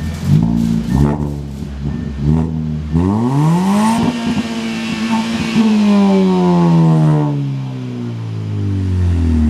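Hyundai Veloster's four-cylinder engine, exhaust straight out with the muffler deleted, blipped a few times over idle, then revved in one long rise about three seconds in, held, and let fall slowly back toward idle.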